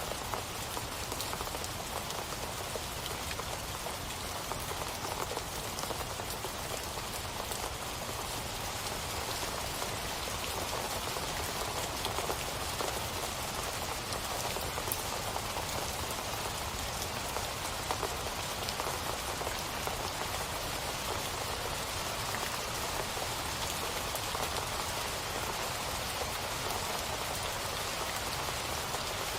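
Steady rainfall, an even hiss of drops with many small drop ticks.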